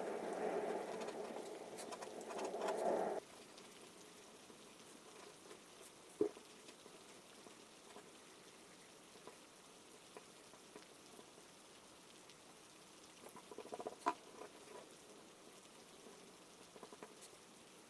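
Rain-sound ambience, a faint even patter. A louder noisy layer stops suddenly about three seconds in, and a few soft ticks come later.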